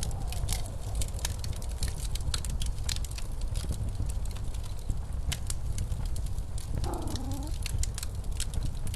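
Wood fire crackling with many sharp pops over the steady low rumble of blizzard wind. About seven seconds in comes one short pitched sound, under a second long.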